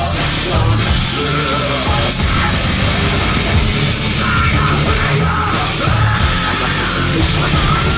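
Live heavy rock band playing loudly in a club, the music dense and unbroken.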